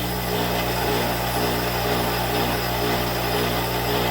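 Electric grinder running steadily while pieces of bloomery iron are spark-tested against it: a constant motor hum under a noisy grinding sound.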